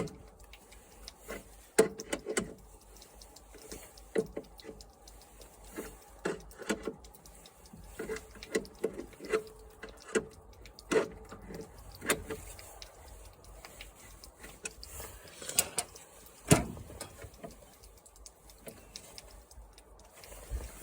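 Irregular metallic clinks, clanks and rattles of hand tools and bolts on a lawn mower being taken apart, with a heavier knock about two seconds in and a louder one about three-quarters of the way through.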